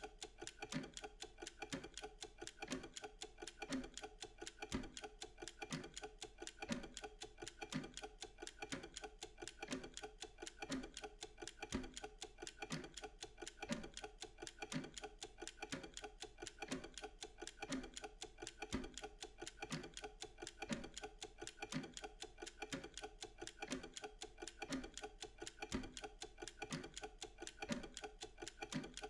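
Mechanical kitchen timer ticking fast and evenly, with a lower knock about once a second: the running tick of a Pomodoro timer counting down a work period.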